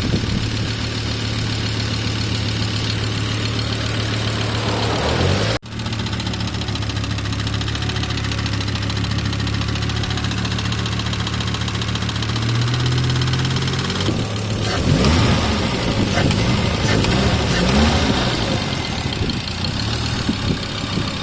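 1997 Volvo 850R's turbocharged five-cylinder engine idling steadily, then revved a few times in the last third. With the oil sump seals freshly replaced, the ticking/knocking that mechanics took for a finished motor has quieted down.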